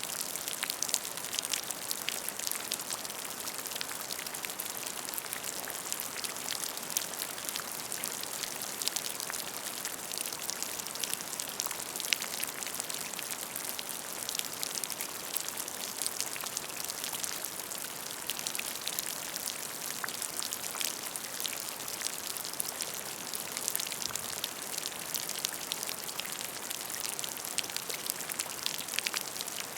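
Steady rain falling on a puddle: a dense hiss of countless small drops with individual plinks and splashes on the water surface.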